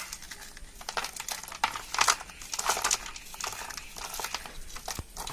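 Intermittent crinkling and rustling as a packet of groundnut cake fertiliser is handled and shaken out, with one sharp click near the end.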